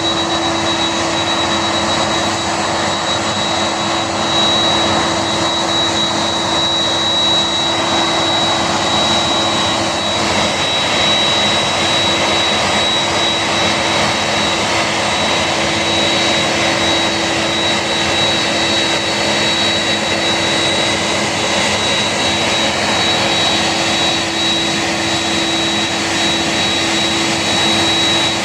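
Boeing 747 jet engines running steadily: an even rush of noise with a steady high whine and a lower hum held throughout.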